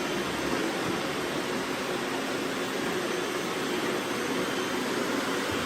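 Several robot vacuums running together, a steady whir of suction motors and brushes.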